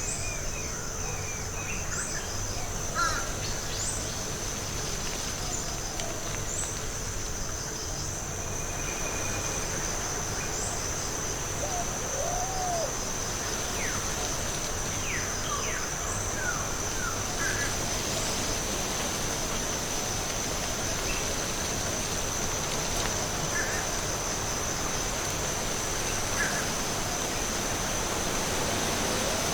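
Forest ambience: a steady high-pitched insect drone with scattered short bird chirps and calls over a soft background hiss.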